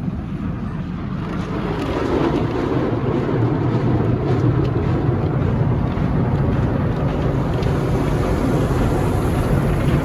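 Automatic car wash machinery and spray jets working over a pickup truck, heard from inside the cab as a steady loud rush that swells about two seconds in and then holds.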